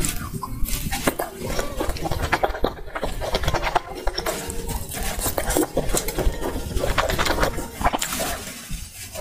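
Close-miked mukbang eating sounds: a quick, irregular run of wet chewing clicks and smacks as skewered fish cakes are bitten and chewed.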